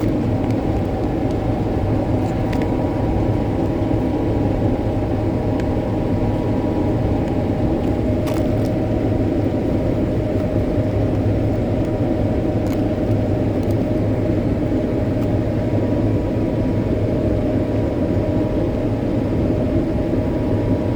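Combine harvester running steadily while harvesting soybeans: a constant engine and machinery hum with a faint steady high whine.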